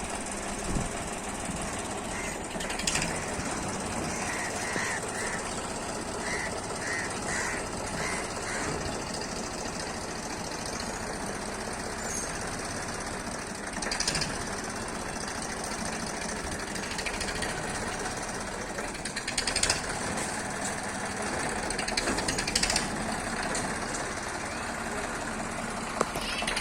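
Tractor engine running steadily with a knocking beat, a series of short high chirps a few seconds in, and a few sharp knocks.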